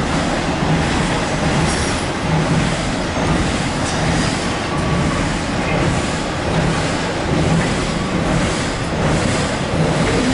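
Double-stack intermodal freight cars of a Norfolk Southern train rolling past over a steel girder bridge: a steady loud rumble of wheels on rail with a low clatter repeating every second or less.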